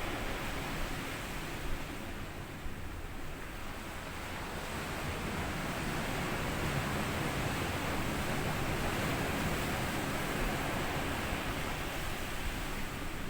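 Small waves washing up onto a sand beach and drawing back, a steady rush of surf that eases off about two seconds in and swells again after about five seconds.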